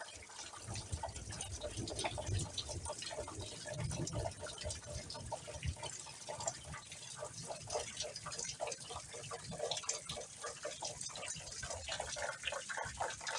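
Heavy rain falling, a dense, irregular spatter of drops hitting and splashing on wet ground.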